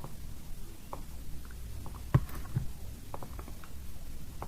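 A few soft computer mouse clicks over a low room hum, with one sharper click about two seconds in.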